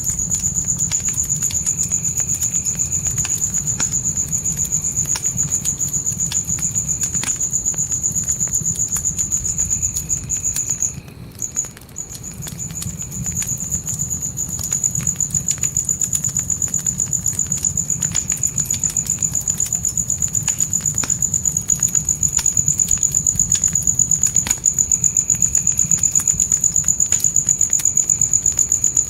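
Crickets trilling steadily at a high pitch over a crackling fire: scattered small pops and a low rumble of flames. The trill drops out briefly about eleven seconds in, then resumes.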